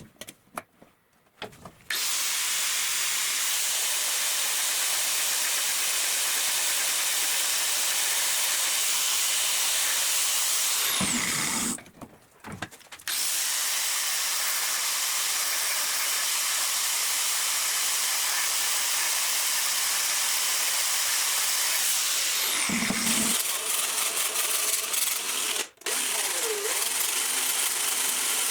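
Electric power tool running with a steady, hissing whir in a knife-making shop. It stops for a moment near the start, again around twelve seconds in, and very briefly near the end.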